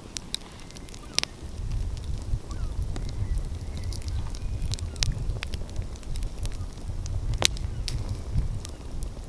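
Wood fire crackling, with sharp pops scattered through it, over a low rumble that swells and fades.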